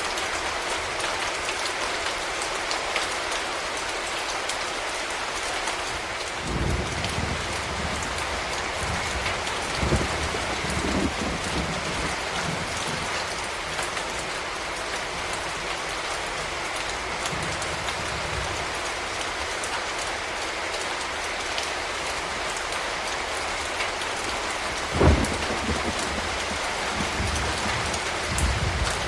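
Steady rain falling, an even hiss, with a few short low rumbles or thuds breaking through, the loudest about 25 seconds in.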